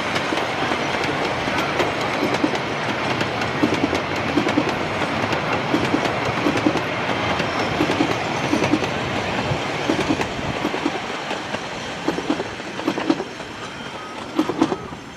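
A 16-inch gauge grand scale train rolling on its track, with a steady rumble and its wheels clicking over the rail joints in double clicks every second or two. It grows quieter near the end.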